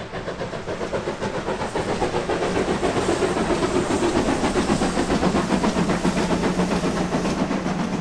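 Steam locomotive passing at speed, its exhaust beats coming several times a second over a steam hiss. It grows louder over the first few seconds, peaks about midway, then begins to fade.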